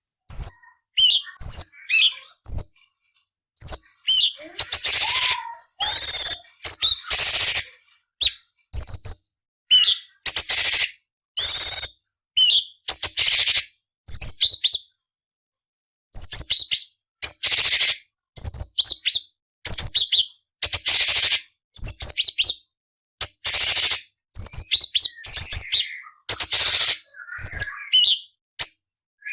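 Orange-bellied leafbird (cucak cungkok) singing a rapid, varied run of short sharp whistled notes and harsh, grating chattering phrases. There is a brief pause about halfway through.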